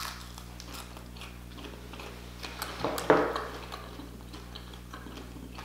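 Close-miked chewing of a bite of Hot Cheeto–crusted fried octopus: small crunches and mouth clicks, with one brief louder sound about three seconds in.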